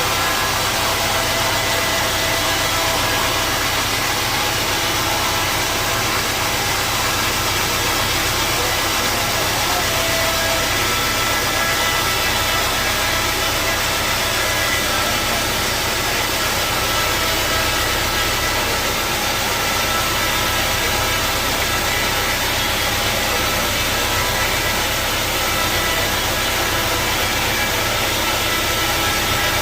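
Sawmill saw machinery running steadily, a constant motor hum with a wide even hiss of noise over it and no breaks or changes.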